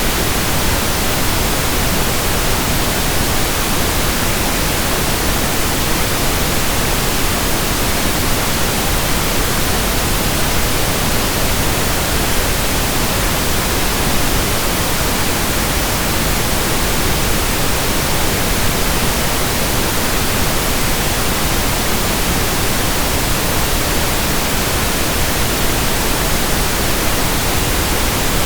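Steady pink noise: an even, unchanging hiss spread across the whole range, without pauses or events.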